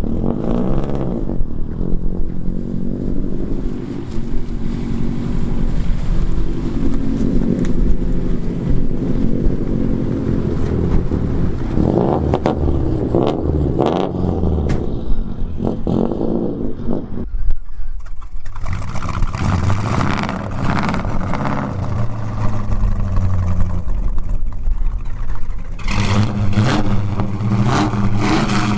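Old muscle car engine running as the car is driven, its pitch rising and falling as it revs up and eases off. Just past halfway the sound changes abruptly to a noisier mix of engine and road noise.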